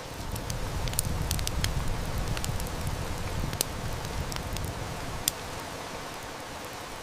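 Steady heavy rain with a wood fire crackling, sharp snaps and pops scattered throughout. A low rumble swells in at the start and fades out about five seconds in.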